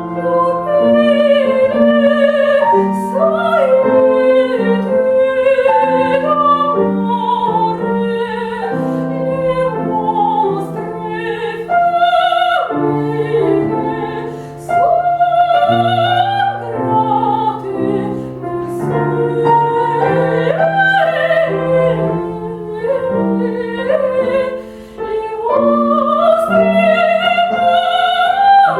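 A female classical singer sings an operatic aria with vibrato over piano accompaniment, with a rising phrase near the end.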